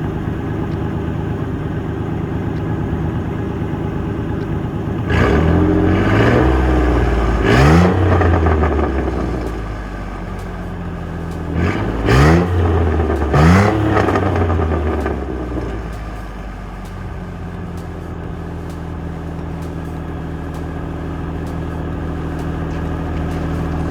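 Truck's V6 engine idling through its exhaust, revved twice about five seconds in and twice more about twelve seconds in, each time rising and falling back, then settling to a steady idle.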